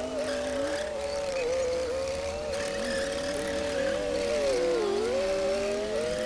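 Komatsu D60P bulldozer's diesel engine running steadily under load while pushing soil, its pitch sagging briefly and recovering near the end.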